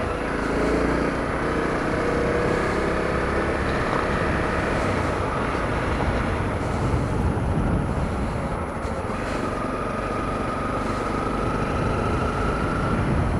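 Honda CRF250L's single-cylinder four-stroke engine running steadily while the motorcycle is ridden, heard through a helmet camera's microphone along with road and wind noise.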